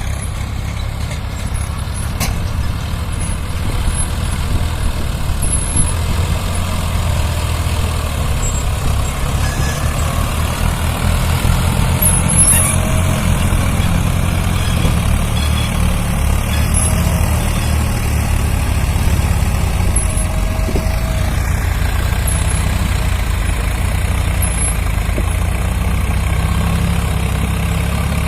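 Diesel tractor engines running steadily and loudly, with a low, fast pulse that gets a little louder about four seconds in.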